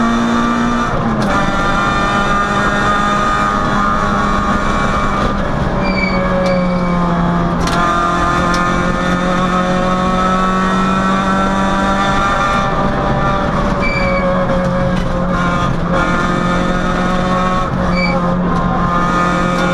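Peugeot 106 rally car's four-cylinder engine at high revs, heard from inside the cabin at full stage pace. The engine note stays high and steady, with short dips at gear changes about a second in and again several times later.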